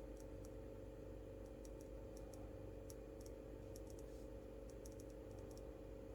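Faint, sharp, irregular clicks, singly and in small clusters of two or three, over a steady low electrical hum.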